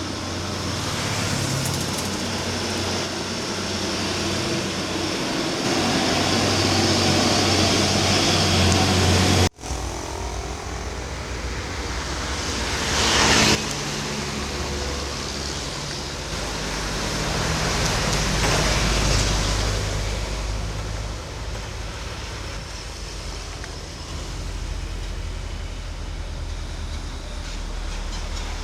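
Truck engine pulling hard up a steep climb, with road traffic around it. The sound cuts off abruptly about a third of the way in, and a vehicle passes close and loud a few seconds later.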